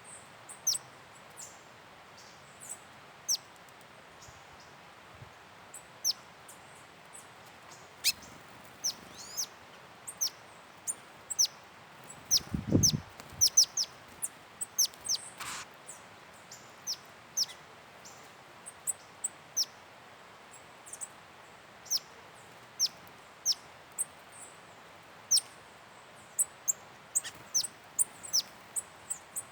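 Small birds calling: short, high chirps that each fall steeply in pitch, repeated irregularly and sometimes in quick clusters. There is one low thump near the middle.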